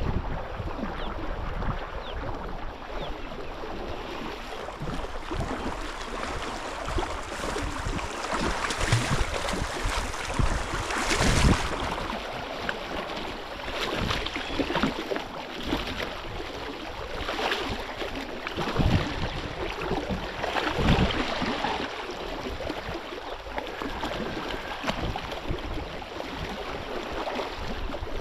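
Steady wash of wind and moving water, with a handful of louder surges a few seconds apart.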